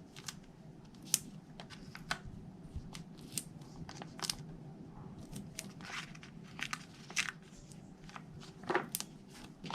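Backing papers being peeled off small foam adhesive dimensionals, making a scatter of irregular light paper clicks and crinkles.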